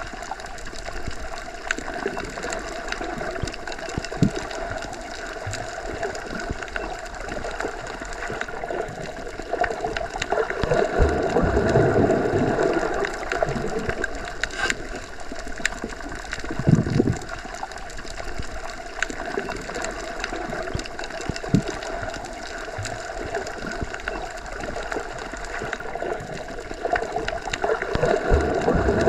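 Underwater ambience: a continuous watery hum with a few steady tones, swelling louder in slow surges, with scattered clicks and a few short low thumps.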